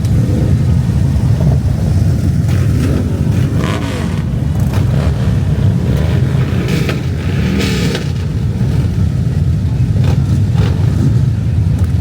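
Motorcycle engines running loud and low, the pitch rising and falling a couple of times as the throttle is revved.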